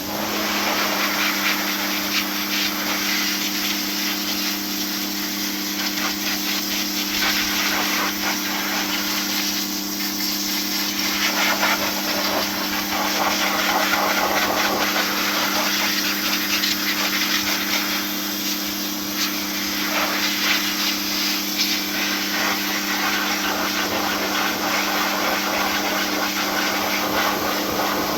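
A motor-driven machine switches on abruptly and runs steadily, with a constant hum under a rushing hiss.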